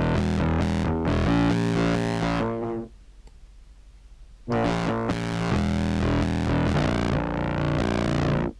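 Sampled contrabass clarinet through a filter-and-fuzz pedal chain, playing sustained notes in two phrases separated by a pause of about a second and a half, with a low hum in the gap.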